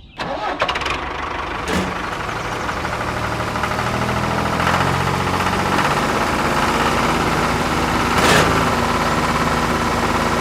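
A small engine starts and runs steadily, growing a little louder over the first few seconds, with a sharp knock about eight seconds in.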